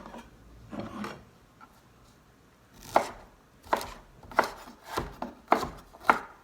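Knife cutting blanched broccoli florets on a cutting board: a couple of soft cuts about a second in, then six sharp chops about two every second in the second half.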